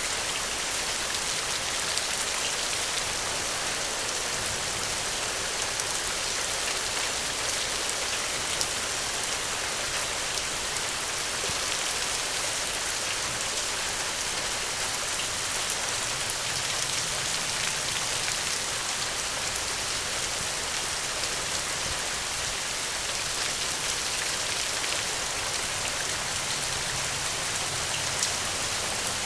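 Steady rain falling: an even hiss with scattered light drop taps.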